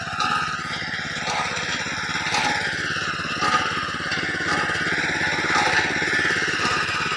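Tractor engine running steadily with a fast even firing beat, its pitch drifting gently up and down.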